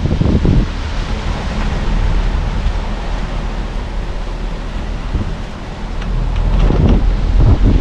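Car driving along: steady road and wind noise with low wind buffeting on the microphone, and a few dull thumps, the clearest near the start and near the end.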